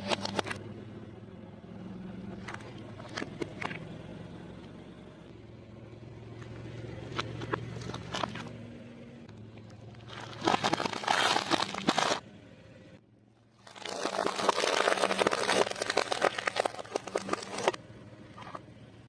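A car rolling slowly over things in its path and crushing them under its tyres, over a low steady engine hum. Scattered cracks and snaps give way to two long stretches of dense crunching and crackling, about ten seconds in and again from about fourteen seconds.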